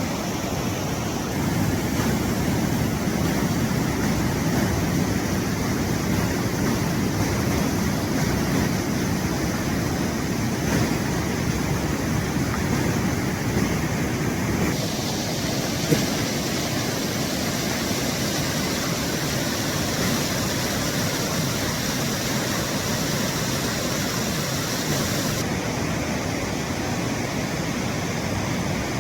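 Steady rushing of a town-centre waterfall with a 20-metre drop. The hiss of falling water brightens abruptly about halfway through and eases again near the end, with one brief knock about halfway.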